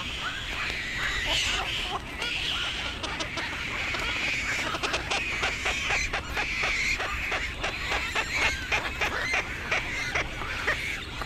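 Black-crowned night herons calling: dense overlapping chatter with short call notes and many rapid clicks, busiest from a few seconds in.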